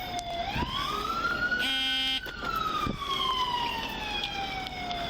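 Emergency vehicle siren on a slow wail, rising and then falling through one long cycle and starting to rise again near the end. A short horn blast cuts in just under two seconds in.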